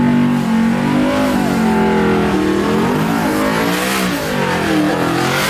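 Racing truck engines revving hard, their pitch rising and falling, with more than one engine heard at once.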